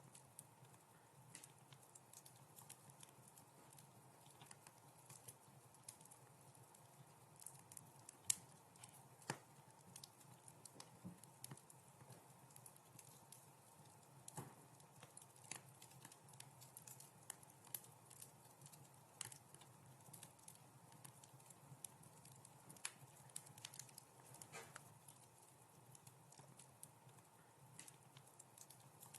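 Wood fire crackling faintly: irregular sharp pops and snaps over a soft low hiss, with the loudest pop about eight seconds in.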